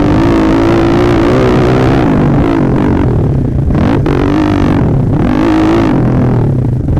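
Modified four-stroke pit bike engine with an FMF Power Core 4 exhaust, running hard under throttle. The revs rise and fall, and the pitch dips briefly several times as the throttle is rolled off and back on.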